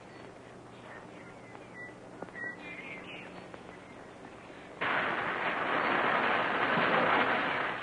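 Quiet film-track hiss, then a dynamite blast goes off suddenly about five seconds in and carries on as a long rushing rumble of rock for about three seconds, easing near the end.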